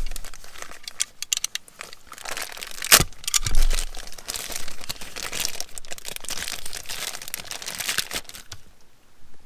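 Crinkling, scraping handling noise with many small clicks and one sharp click about three seconds in, as a worn rubber pad is worked off a car's pedal.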